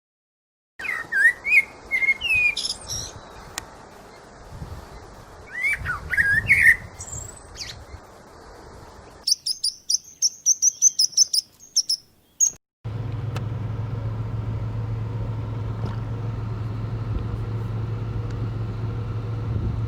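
Small birds chirping and calling, followed by a quick run of short, high-pitched calls, about four a second, that cuts off suddenly. After that comes a steady low mechanical hum, like an engine running.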